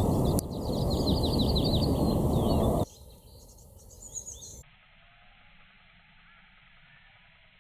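Birds chirping over a loud, steady rushing noise that cuts off abruptly about three seconds in, leaving faint bird calls and quiet outdoor ambience.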